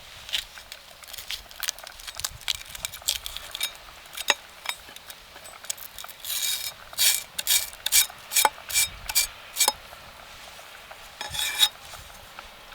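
Cooking utensils scraping and tapping during food preparation: scattered light clicks, then a run of short scraping strokes about two a second in the middle, and one more scrape near the end.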